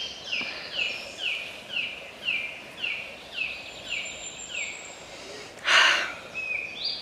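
A bird singing a run of short falling notes, about two a second, over a faint steady outdoor background. Near the end comes one short, loud burst of noise, louder than the song.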